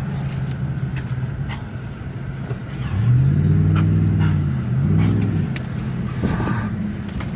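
A car engine running, heard from inside the cabin. About three seconds in it revs up and eases back, then does so again briefly, as the driver accelerates.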